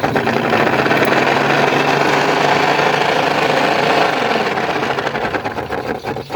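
Furnace draft inducer motor running with a loud, weird noise that tails off near the end. The technician traces it to the inducer wheel rubbing against its plastic housing.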